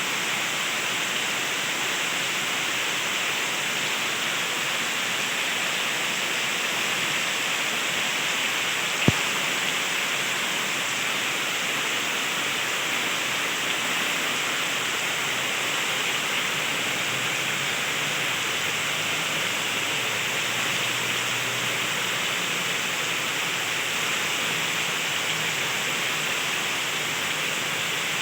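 Heavy rain pouring down as a dense, steady hiss, with a single sharp click about nine seconds in.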